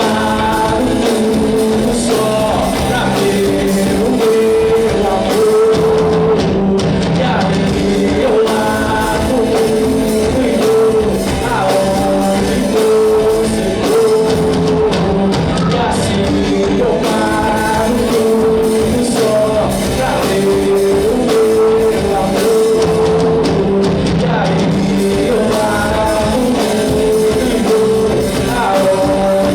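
Rock band playing live, with a singer over the band.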